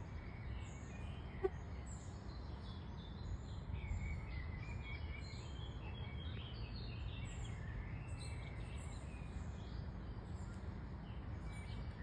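Small birds chirping and twittering on and off over a steady low background rumble, with one sharp click about one and a half seconds in.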